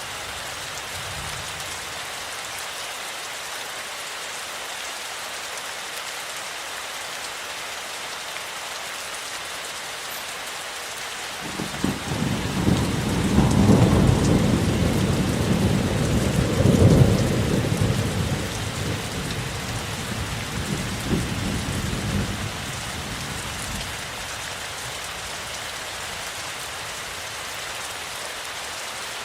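Steady rain falling, with a roll of thunder that breaks in suddenly about a third of the way through. The thunder swells twice, then rumbles away over about ten seconds.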